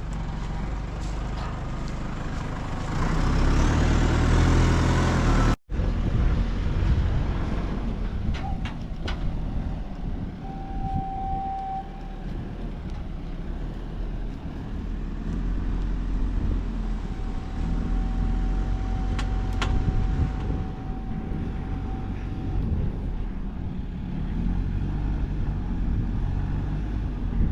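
Heavy diesel machinery running, revving up about three to five seconds in and then settling back to a steady run. A steady high tone sounds twice over it, once for about a second and later for about five seconds.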